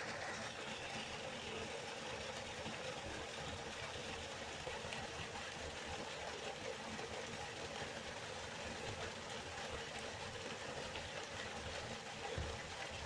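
River water flowing steadily: a continuous, even rushing with no break.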